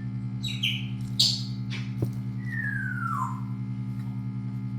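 African grey parrot calling: a few short, sharp squawks, the loudest about a second in, then a long whistle that falls in pitch. A steady low hum runs underneath.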